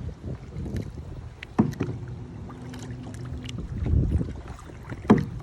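Two people paddling a kayak: paddles dipping and water sloshing around the boat, with a louder low swell about four seconds in. Two sharp knocks stand out, about a second and a half in and near the end.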